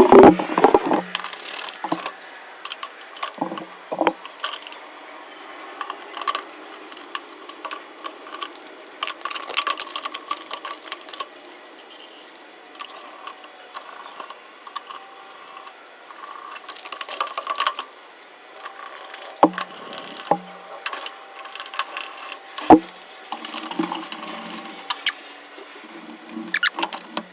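Scattered clicks, clinks and knocks of hand tools, screws and metal panels as a top-load washing machine is put back together, with the loudest knocks near the start, about two-thirds through, and near the end.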